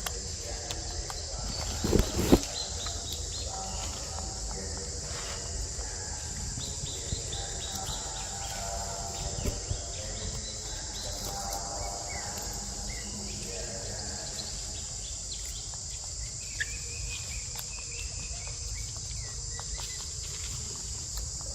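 Steady high-pitched insect drone, with a couple of sharp knocks about two seconds in and faint pitched calls now and then.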